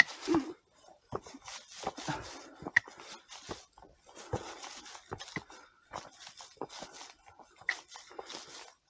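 Hikers' footsteps on a trail: irregular scuffs and taps, a few to the second, with a few sharp clicks among them.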